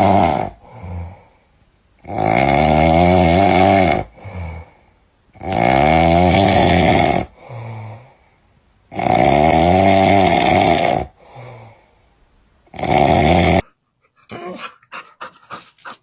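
Dog snoring loudly: four long, rasping, droning breaths about three and a half seconds apart, each followed by a shorter, quieter breath. A few faint clicks follow near the end.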